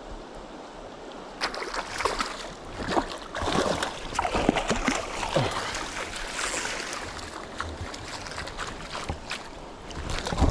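Irregular splashing and sloshing in shallow water over the steady rush of a flowing river, busiest from about a second and a half in until a little past the middle.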